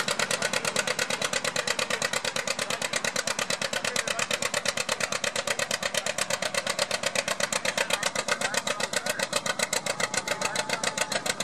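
Antique tractor engine running under load, pulsing evenly at about eight beats a second.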